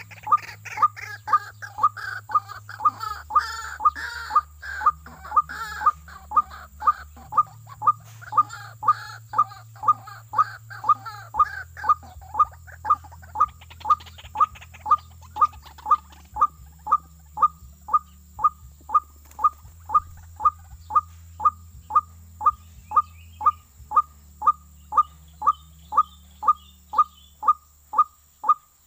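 Bird call of short falling notes repeated very evenly, about one and a half to two a second. Other birds call over it for the first dozen seconds.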